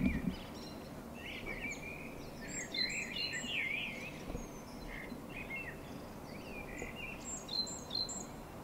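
Songbirds singing in warbling phrases with short high chirps, over a steady low background hum.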